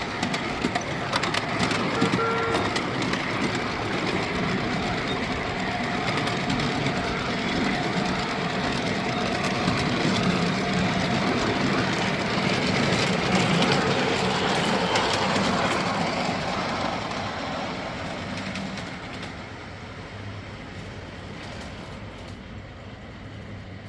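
Miniature ride-on railway train running along the track, wheels clattering on the rails. It grows louder, then fades away over the last several seconds.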